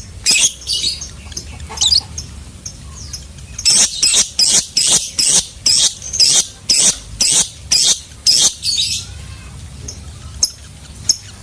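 Lovebird calling: a few shrill chirps, then a loud run of about a dozen sharp, high chirps at roughly two a second for about five seconds, the lovebird's long 'ngekek' chatter, ending with a couple of softer chirps.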